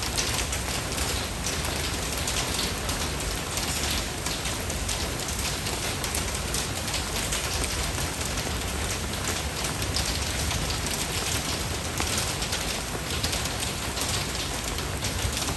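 Steady rain falling, an even, dense patter of drops that keeps on without letup.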